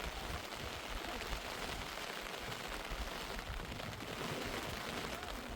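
Heavy rain falling steadily, a dense even hiss with a low uneven rumble underneath.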